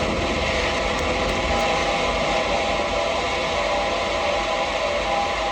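Live noise music: a dense, steady wall of hiss and rumble with a few faint held tones in the middle.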